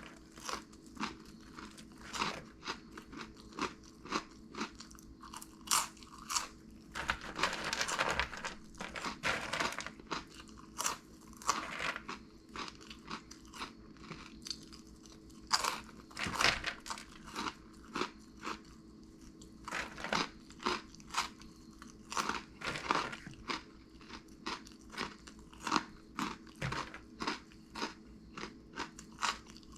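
Crunchy corn-puff snacks, Flamin' Hot BBQ Cheddar Cheetos, being chewed close to the microphone: irregular crisp crunches every half second to a second, with a faint steady hum underneath.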